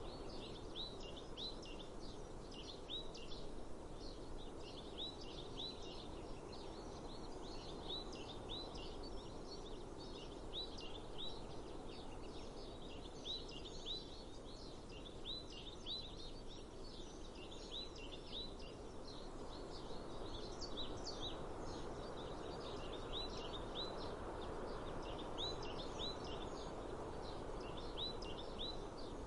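A songbird repeating short, high chirps in quick groups of two to four, over a steady outdoor hiss of breeze.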